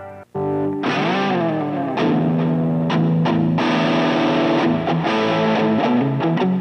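Electric guitar played through a Nux MG-300 multi-effects processor on a distorted patch: after a brief break near the start, a bent note about a second in, then a riff of changing notes.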